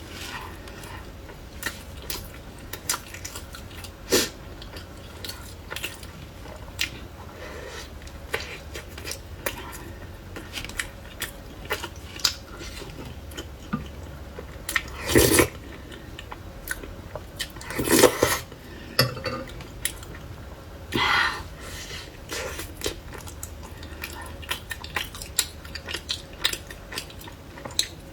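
Dakgangjeong being handled with utensils and dishes: scattered clicks and small knocks, with a few louder clatters about halfway through.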